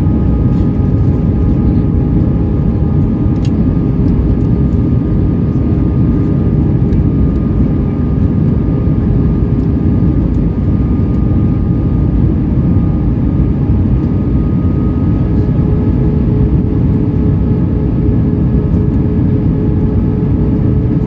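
Steady cabin noise inside an Airbus A320-232 airliner on approach: rushing airflow and the hum of its IAE V2500 engines, with a few steady tones over the noise.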